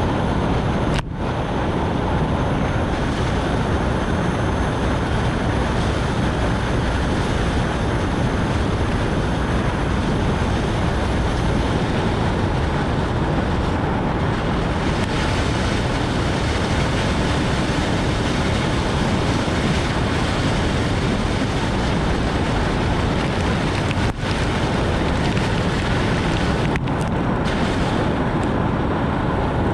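Steady rush of tyre spray and wind noise from a Nissan Note e-POWER driving on a rain-soaked road in heavy rain. It drops out very briefly about a second in and twice more near the end.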